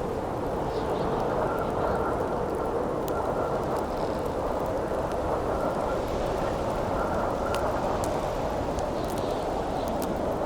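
Steady howling wind with a campfire crackling over it: scattered small sharp pops and snaps through the wind's even rush.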